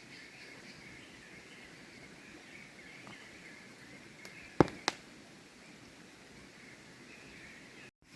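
Outdoor creekside ambience with a steady high chirping in the background. Two sharp knocks, about a third of a second apart, come halfway through.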